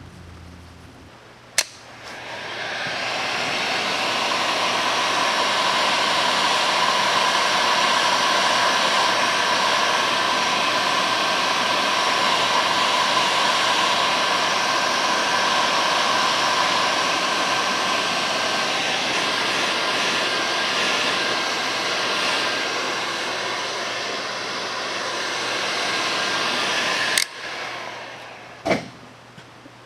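Handheld electric blower switched on with a click, its fan spinning up into a steady whir for about 25 seconds, then switched off with a click, followed by another click shortly after.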